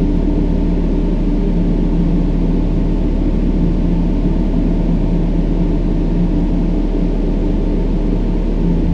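Steady brown noise: a deep, even rumble with most of its weight in the low end, and a low steady hum running through it.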